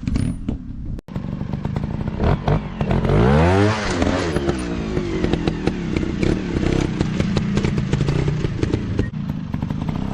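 Dirt bike engines running and revving off-road. One revs up and falls back in pitch about three seconds in, over a constant rattle of rapid ticks. The sound drops out for a split second about a second in.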